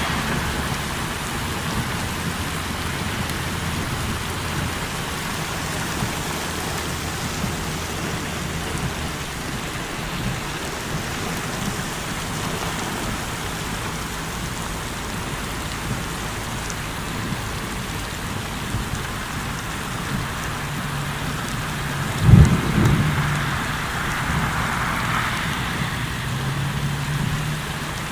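Heavy rain falling steadily, with low rolling thunder in the first several seconds and one sudden loud thump about 22 seconds in.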